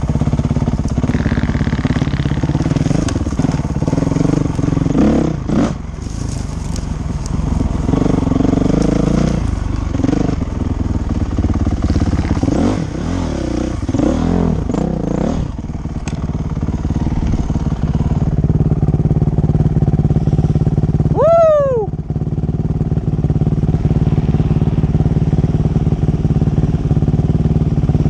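Dirt bike engine running, its pitch rising and falling with the throttle in the first half, then holding a steady note. About 21 seconds in, a short high-pitched sound falls in pitch over it.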